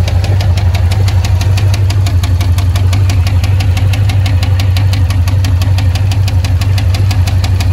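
The 2005 Jeep Grand Cherokee's 5.7 HEMI V8 is running steadily with a loud, rapid, evenly spaced knock. This is internal damage from water ingestion (hydrolock), which the owner tags as a broken rod.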